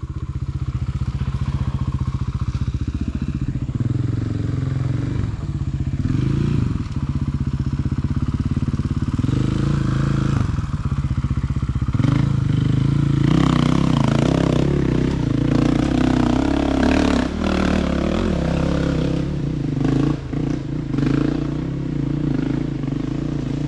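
Dirt bike engine riding over rough ground, its revs rising and falling again and again as the throttle is worked, with clattering as the bike goes over the terrain.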